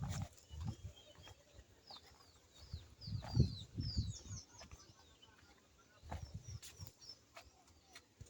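A bird chirping in a quick run of short falling calls through the middle, with a few low thumps at the start, in the middle and again near the end.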